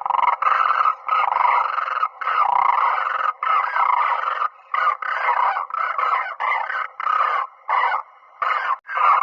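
Cranes calling, a dense chorus of rolling calls broken by brief gaps.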